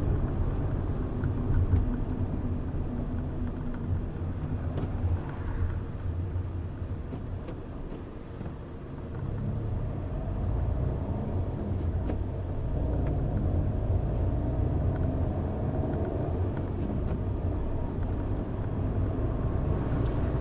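Car driving along, its engine and tyres making a steady low rumble that eases off about eight seconds in and builds again a couple of seconds later.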